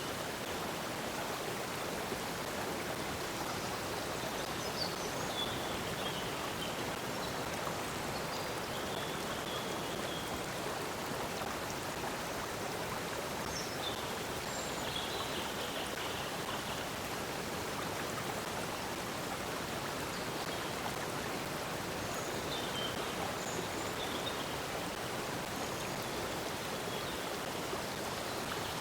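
Water flowing steadily in a stream, an even rushing babble, with faint short bird chirps now and then.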